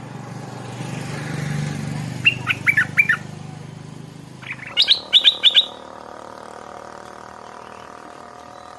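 Stripe-throated bulbul singing two short, quick phrases of bright, bubbling notes, the second higher and a little longer. A low hum underneath fades out about halfway through.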